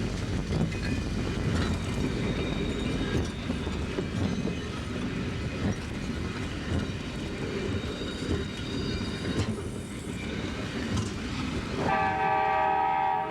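Train running with a steady rolling clatter; about a second before the end, a horn sounds a steady chord.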